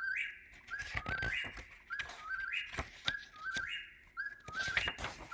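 Eastern whip-poor-will singing, its whistled three-note 'whip-poor-will' phrase repeated over and over about once every 1.2 seconds, each phrase stepping up to a higher final note.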